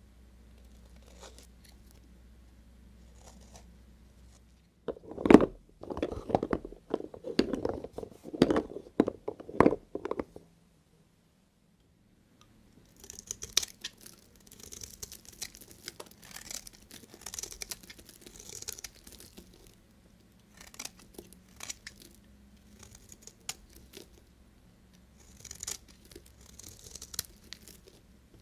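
A knife cutting through a bar of soap. About five seconds in comes a quick run of loud crunching knocks lasting about five seconds, then after a short silent gap a softer, hissy crackling and scraping of slices goes on in clusters.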